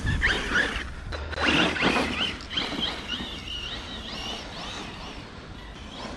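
Arrma Kraton 6S EXB RC truck's brushless motor whining up and down in pitch as it is throttled on and off, with bursts of its tyres churning through snow.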